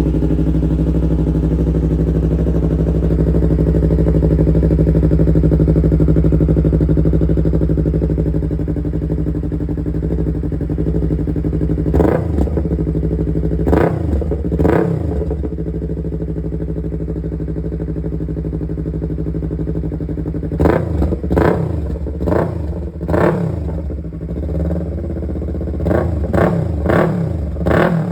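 Yamaha R3's parallel-twin engine breathing through a Vmax aftermarket exhaust, idling steadily, then blipped three times about halfway through and revved in a quick run of about ten sharp throttle blips over the last third.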